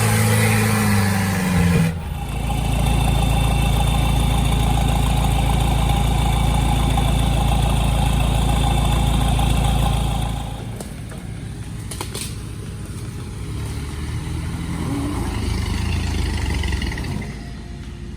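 Vehicle engine working hard off-road, running loud and steady under load, then easing to a quieter, uneven running about ten seconds in.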